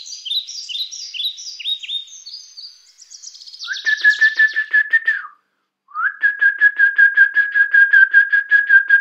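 Birdsong: a run of quick, high falling chirps, then a long trilled whistle on one steady pitch that stops briefly and starts again about six seconds in.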